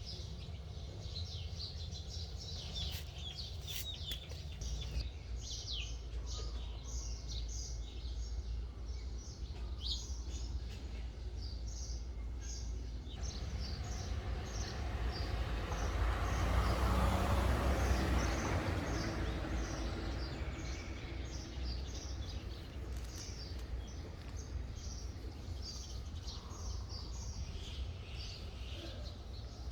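Small birds chirping in many short, rapidly repeated high calls over a steady low rumble. Around the middle, a broad rushing noise swells up and fades away over several seconds.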